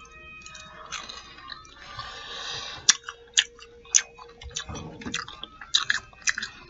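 A person chewing a fried fish nugget dipped in sauce, close to the microphone: soft mashing, then from about three seconds in a string of sharp crunches and wet smacks, roughly two a second.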